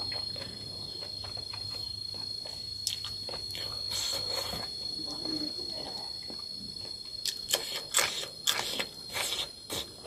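Close-up chewing and lip-smacking of a mouthful of food, the smacks coming thick and loud in the last few seconds. A steady high insect chirring, typical of crickets, runs underneath.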